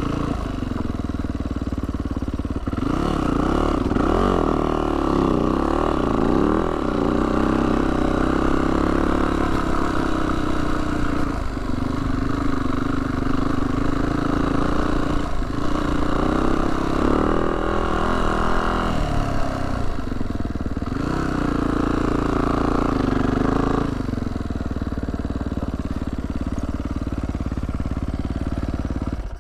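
Yamaha YZ450F dirt bike's single-cylinder four-stroke engine running under load on a trail climb, its revs rising and falling. It stops abruptly at the very end.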